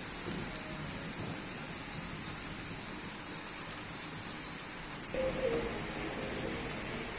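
Steady rain falling, an even hiss. About five seconds in, a faint low hum joins it.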